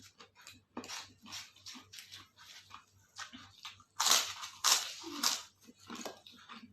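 Close-up chewing and crunching of crisp food at a mukbang meal, in irregular bites. The crunching is loudest in a run of bites about four seconds in.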